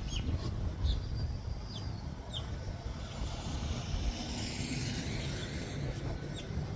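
Steady low rumble of nearby road traffic, with a car's hiss swelling past about four seconds in. Short, high, falling bird chirps come through now and then.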